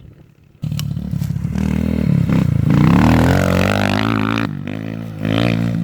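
Polini XP4 110cc pit bike's small four-stroke single cylinder engine, suddenly loud about half a second in and revving up as it accelerates. It eases off briefly near the end, then picks up again.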